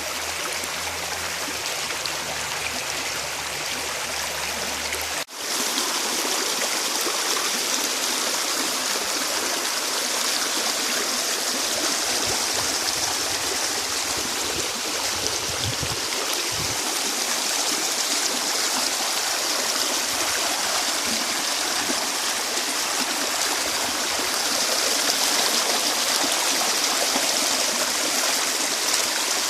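Running stream water rushing steadily, with a sudden cut in the recording about five seconds in.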